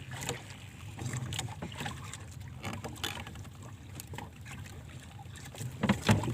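Water lapping and splashing, with a steady low rumble of wind on the microphone and scattered small clicks. It grows louder and busier near the end.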